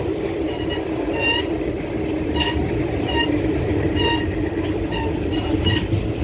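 Hapa–Madgaon Superfast Express running along the track, heard from on board as a steady rumble of wheels and coach. About a dozen short, high-pitched squeaks come at irregular intervals over the top.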